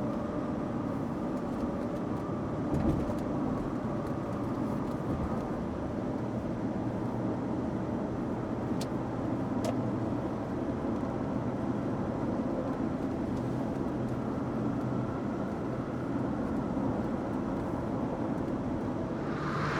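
Car running: a steady engine hum and road noise, with a single low thump about three seconds in.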